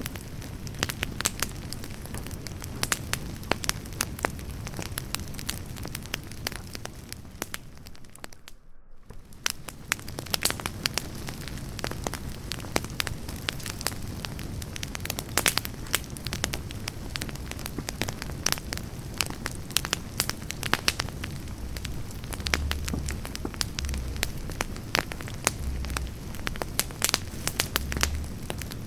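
Wood campfire burning, with a steady hiss and constant sharp crackles and snaps of the burning logs. It drops out briefly about nine seconds in, and there are a few low thumps near the end.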